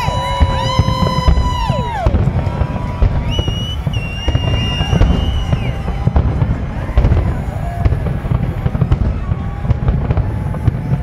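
Fireworks shells bursting in a dense, continuous barrage of booms and crackles.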